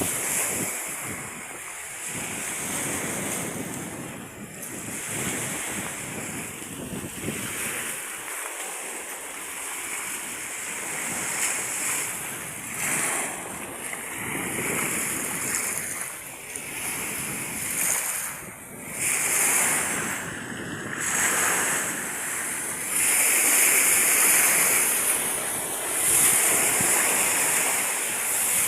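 Sea waves washing and breaking against the seafront at high tide, with wind gusting across the microphone. The surf rises and falls in surges every few seconds and grows louder in the second half.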